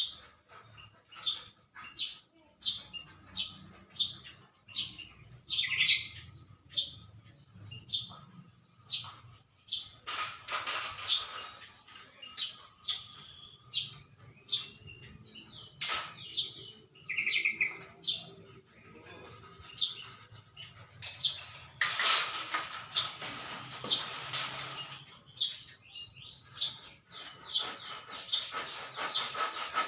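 Small birds chirping, short high calls repeated about once a second, with a longer, louder scratchy burst about two-thirds of the way in.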